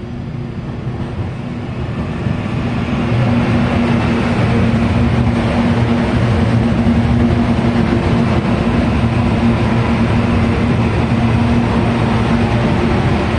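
CPTM electric multiple-unit train running in alongside the platform. Its sound grows louder over the first three seconds as it approaches, then holds as a steady rumble of wheels on rails with a low hum while the cars pass.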